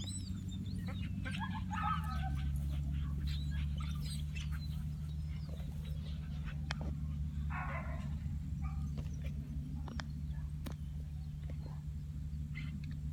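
Scattered chirps of small birds over a steady low hum that drops slightly in pitch about two seconds in.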